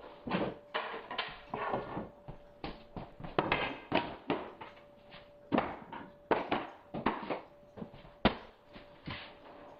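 Irregular wooden knocks and clatter of hardwood flooring boards being handled and set down against one another, with some short scraping.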